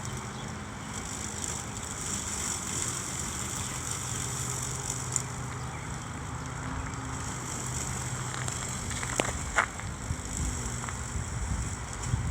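Homemade remote-controlled lawn mower, a Kobalt electric mower driven by wheelchair motors, running: a steady electric hum with a hiss over it. A few short clicks about nine seconds in.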